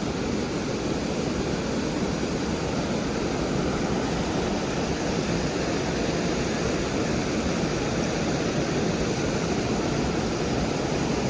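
Steady rushing of a small mountain creek running over rocks.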